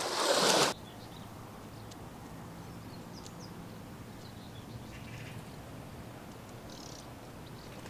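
A loud wash of sea and wind cuts off under a second in. What follows is a faint steady hiss with a few scattered, faint bird chirps.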